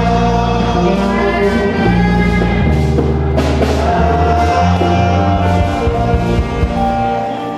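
Gospel music from a church band, with a deep bass line that changes note about once a second under keyboard-like sustained tones; the bass drops out near the end.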